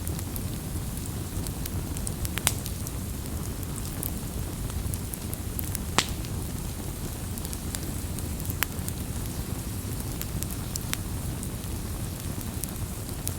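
Wood fire burning with a steady low rumble and frequent sharp crackles and pops, the loudest pops about 2.5 and 6 seconds in.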